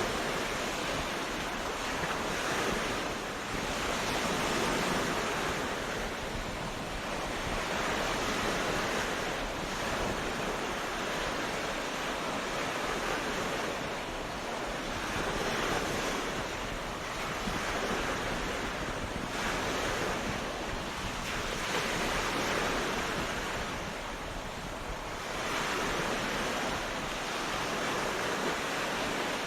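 Sea surf washing onto a beach: a continuous rushing hiss that swells and ebbs every few seconds as waves break.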